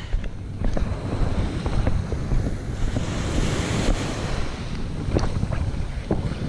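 Wind buffeting the microphone over waves washing, with a few faint clicks or knocks scattered through it.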